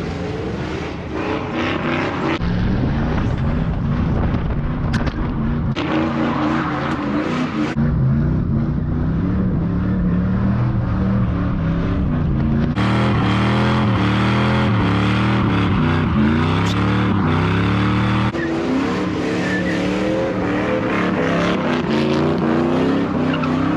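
Pickup trucks doing burnouts: engines revving hard, rising and falling in pitch over the hiss of spinning tyres, in several short passes that cut abruptly from one to the next.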